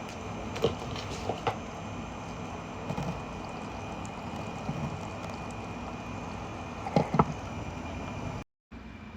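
Small tabletop rain-cloud fountain running: its little water pump hums steadily while water trickles and drips, with a few light knocks, a louder pair about seven seconds in. The sound cuts out completely for a moment near the end.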